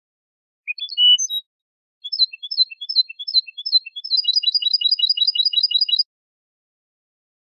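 European goldfinch singing: a short twittering phrase about a second in, then a run of repeated two-note figures about three a second that speeds into a fast, even trill and stops abruptly, with dead silence between phrases.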